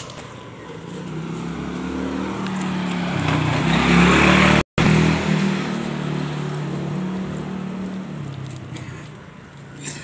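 A motor vehicle's engine passing by, growing louder to a peak about four seconds in and then fading away, with a brief break in the sound just after the peak.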